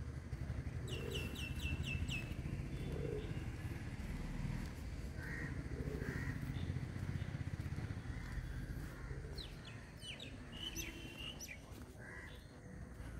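Small birds chirping: a quick run of five or six high, falling chirps about a second in, then scattered chirps near the end, over a steady low rumble.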